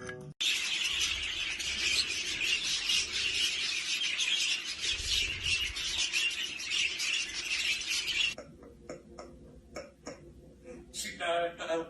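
Parrots chattering and squawking in a dense, harsh chorus that cuts off suddenly about eight seconds in, followed by a few scattered clicks and short calls.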